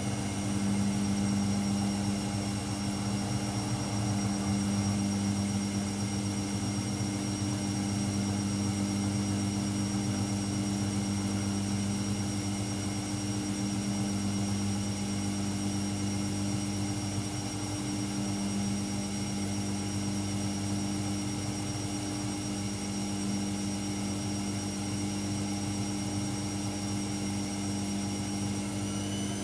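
AEG Lavamat L74810 washing machine running at a steady speed: an even motor hum with a thin high whine over it. Near the very end the whine begins to rise in pitch as the machine speeds up.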